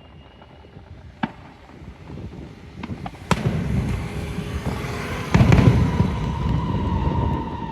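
Fireworks going off: a few single sharp bangs, then a dense run of bursts that builds to its loudest about five and a half seconds in. A steady tone comes in near the end.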